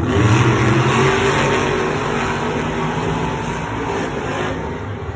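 Monster truck engines revving hard during a race, loudest about a second in, then easing off slightly.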